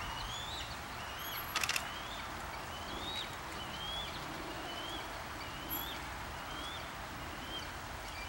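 A small bird repeating a short rising chirp, about one a second, over a steady outdoor background hiss. A brief run of clicks comes about a second and a half in.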